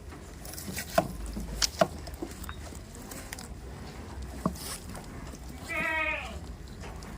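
A goat bleats once near the end, a short quavering call of about half a second. Earlier there are a few sharp knocks or clicks, the loudest about one and two seconds in, with another near the middle.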